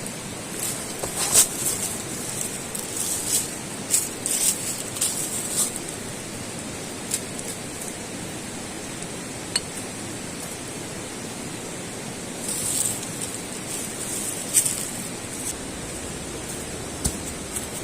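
Steady rushing hiss with scattered sharp light clicks and ticks, coming in clusters in the first few seconds and again about two-thirds of the way through.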